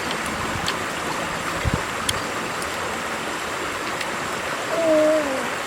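Steady rushing, water-like noise with a few faint scattered clicks. About five seconds in comes a short pitched call that dips in pitch.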